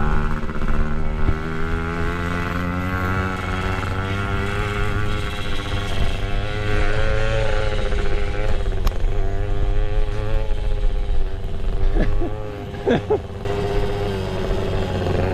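Pit bike's small single-cylinder engine running while being ridden, its revs rising and falling. The engine eases off briefly about twelve seconds in.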